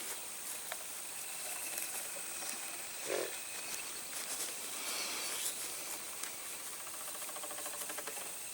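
Quiet outdoor ambience with a steady high-pitched insect drone, a brief soft bump about three seconds in, and faint rapid insect chirring near the end.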